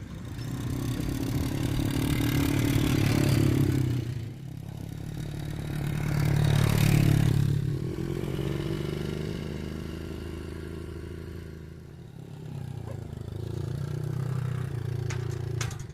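A small engine running, swelling and fading in loudness about three times, with a few sharp clicks near the end.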